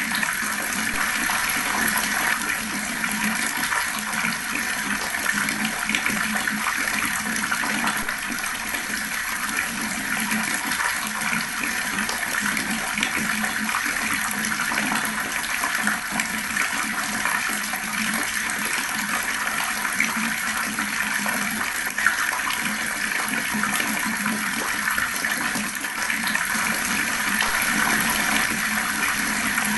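Water running steadily from a tap in a slow stream, splashing without a break.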